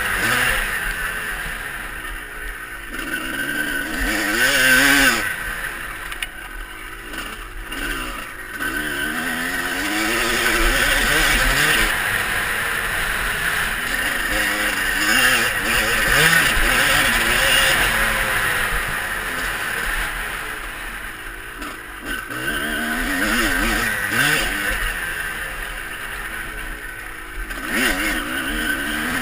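Motocross bike engine revving up and falling off again and again as it is ridden around the track.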